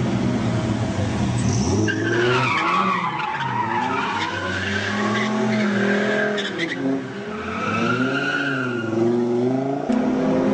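Supercar engine revving, its pitch sweeping up and down several times, with a high squeal from about two seconds in. Near the end the engine settles onto a steady note.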